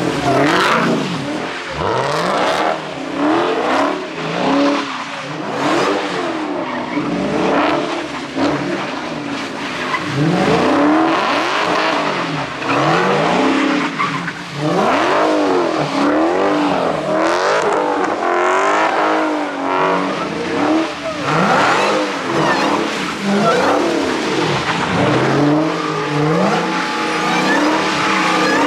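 Car engines revving up and down over and over, the pitch rising and falling every second or two, with tyre noise from cars being driven hard in a burnout pit.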